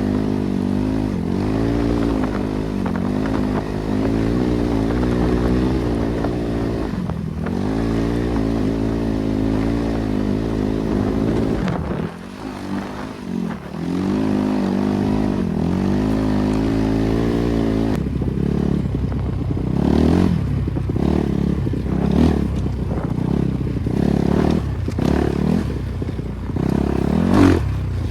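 BRZ MX8 motorcycle's NB300 single-cylinder engine pulling under riding load, its revs rising and falling with the throttle. The engine drops off briefly about twelve seconds in, and from about eighteen seconds on the sound turns choppy and uneven.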